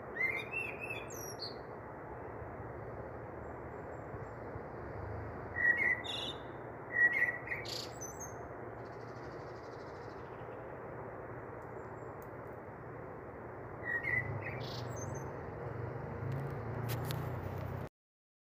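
Small birds chirping in short bursts every few seconds over a steady hiss. The audio cuts out abruptly just before the end.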